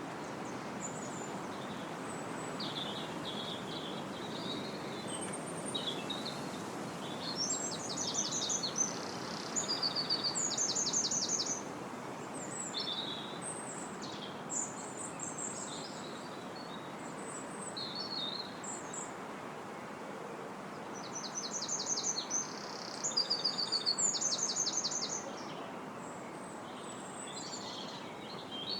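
Wind blowing steadily through trees, a constant rushing under songbirds singing high above it. Two louder bursts of fast trilled bird song stand out, about a third of the way in and again about three-quarters through, with scattered short chirps between.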